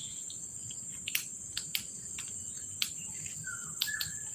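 Steady high-pitched insect buzz, typical of crickets, with a few sharp clicks scattered through it.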